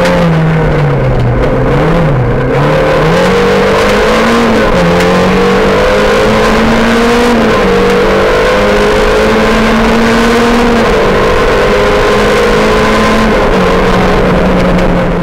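Rally car engine heard from inside the cockpit, slowing for a corner and then accelerating down a straight: the engine note climbs and drops back at each of several upshifts, loud throughout.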